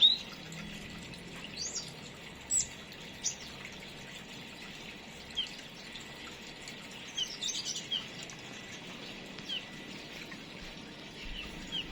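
Small aviary birds giving short, high chirps, scattered singly and in quick little clusters, over a steady background hiss.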